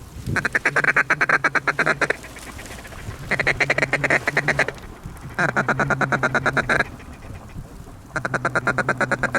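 Mallard duck call blown in a rapid feed chuckle: four runs of quick, evenly spaced quacking notes, about a dozen a second, each run lasting about a second and a half.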